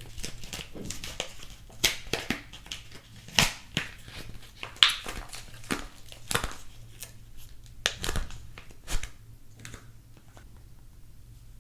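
Soap packaging being unwrapped by hand: the wrapper crinkles and tears in a string of sharp crackles, which thin out to faint rustles in the last couple of seconds.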